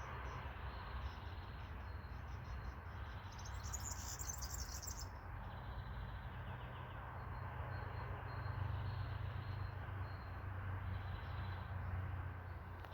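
Outdoor nature ambience: insects chirring, with a loud high pulsing buzz about four seconds in, and faint bird chirps over a steady low rumble.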